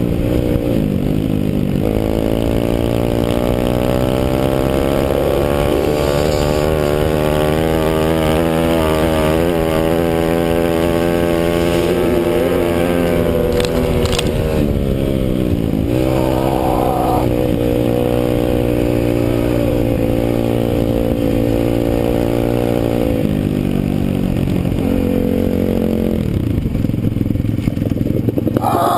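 150cc pit bike's single-cylinder four-stroke engine heard from on board, revving up and easing off again and again. The pitch climbs through each gear and drops at the shifts, about five times.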